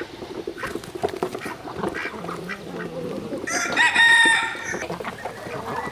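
Farmyard poultry calling, with one loud rooster crow held for about a second just past the middle, over scattered quieter calls from ducks and geese.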